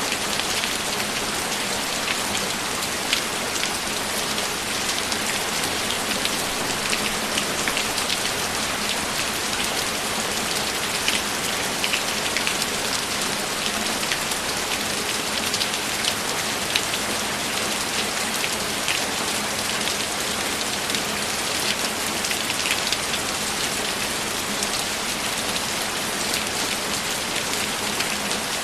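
Steady rain falling, an even hiss studded with many small drop ticks.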